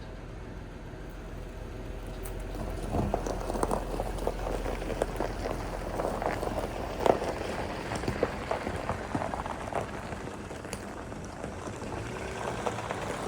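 Land Rover Freelander engine idling as it warms up after a cold start, with irregular crackling and tapping over it from about three seconds in, loudest about seven seconds in.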